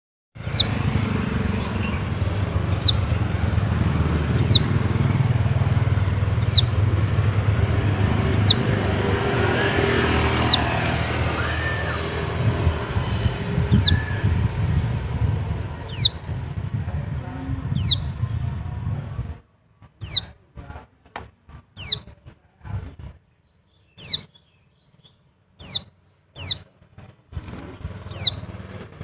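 White-eye (pleci) call: a single short, high note falling in pitch, repeated about every two seconds. A steady low rumble lies underneath and cuts out about two-thirds of the way through, leaving the calls with faint clicks between them.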